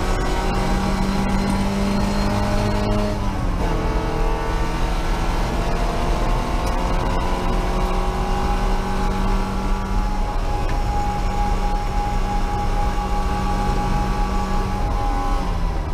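MGB race car's four-cylinder engine running hard at high revs, heard from inside the cabin. The revs drop a step about three seconds in, hold steady, and fall again near the end.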